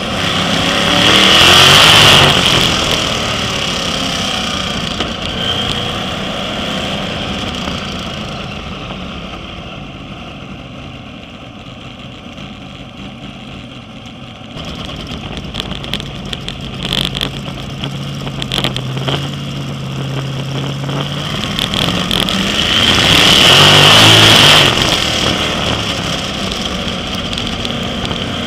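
Sprint car engines running as the cars circle the oval; the pack passes close and loud about two seconds in, fades as it goes round the far side, and passes close again near the end.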